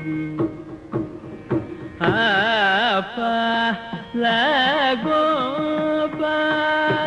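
Carnatic vocal music in raga Mohana: steady drone tones and hand-drum strokes at first, then about two seconds in a voice enters singing phrases with wide, oscillating pitch ornaments (gamakas) over the drone.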